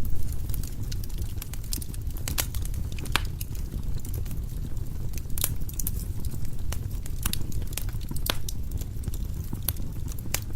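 Firewood logs burning in a fireplace: irregular sharp crackles and pops, a few louder snaps among them, over a steady low rumble of the flames.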